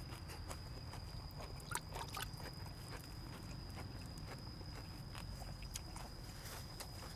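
Chewing and mouth sounds of a person eating: an irregular run of small wet clicks, smacks and crunches, over a faint steady high-pitched whine.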